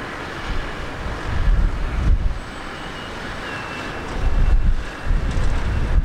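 Wind buffeting the microphone in gusts over a steady rushing hiss and a faint high whine, from a distant jet airliner's engines.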